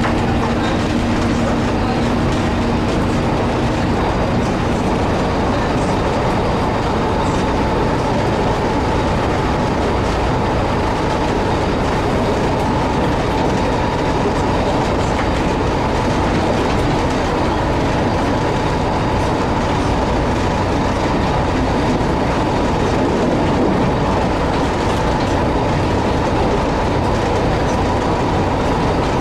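Narrow-gauge diesel multiple unit running along the track, heard from its driver's cab: steady engine and wheel-on-rail noise, with a steady whine setting in after a few seconds.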